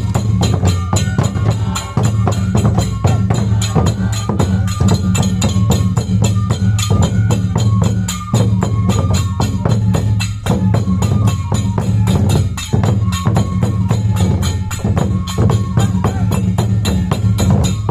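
Japanese folk festival dance music: drums keep a steady low beat under fast, even clicking percussion, with a melody line held above that moves between a few pitches.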